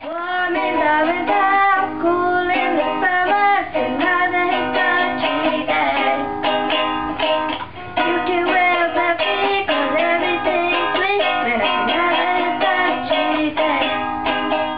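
Ukulele strummed in steady chords with a voice singing a melody over it; it fades out at the end.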